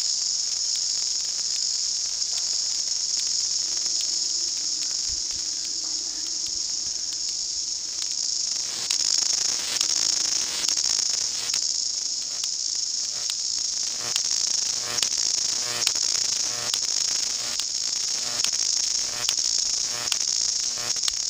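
A chorus of New Zealand chorus cicadas (Amphipsalta zelandica) singing loudly: a steady, shrill high-pitched buzz that pulses and swells, with sharp wing-clap clicks scattered through it.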